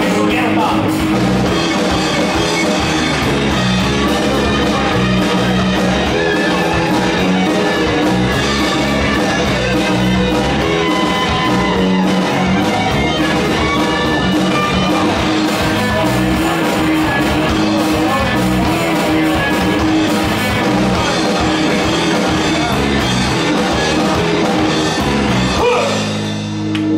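Rock band playing live, with guitar and drum kit, loud and steady; the playing changes and drops briefly near the end.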